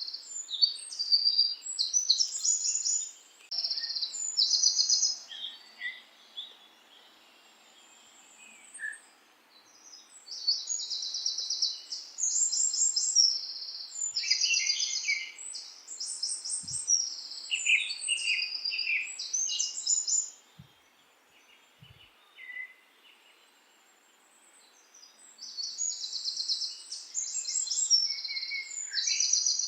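Songbirds singing: bouts of rapid, high chirping trills, with quiet gaps of a few seconds between the bouts, over a faint steady hiss.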